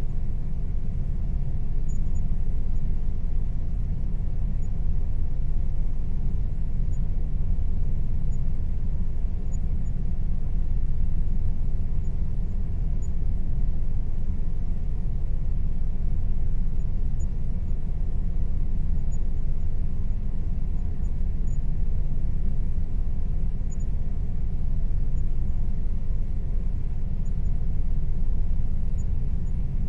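Air conditioner running: a steady low hum and rumble with faint steady tones above it, cutting in abruptly from silence.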